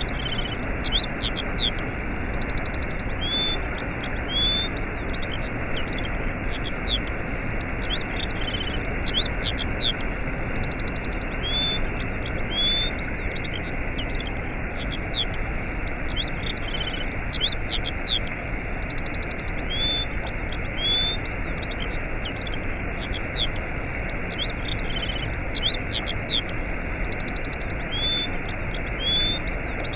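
Steady rush of a waterfall with small birds chirping, trilling and whistling over it. The same run of bird calls comes round again about every eight seconds, as in a looped recording.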